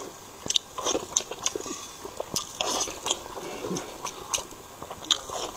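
Close-miked chewing and wet mouth sounds, with scattered small clicks and crackles from a hard-boiled egg's shell being peeled off by plastic-gloved fingers.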